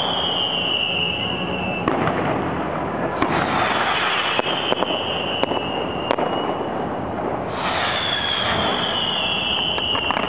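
Fireworks display going off: a steady noisy din broken by several sharp bangs and cracks, with three long high whistles that each slide slowly down in pitch.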